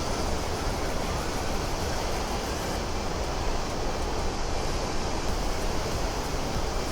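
Chitrakoot Falls, a wide waterfall on the Indravati River, rushing in a steady, unbroken roar of falling water.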